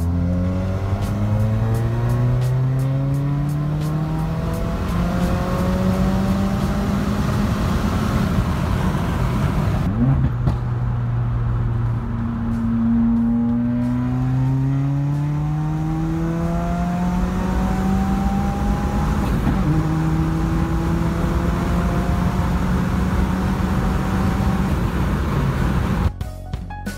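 Subaru WRX's turbocharged flat-four engine heard from inside the cabin, revving up under full throttle in third gear with its pitch rising steadily. About ten seconds in that run ends, and a second third-gear run on the 93-octane tune climbs again more slowly, then holds steady.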